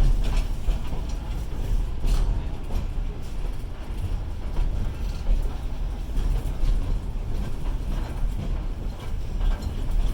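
Passenger train running on a steep grade, heard from inside the car: a steady low rumble with occasional faint clicks and knocks.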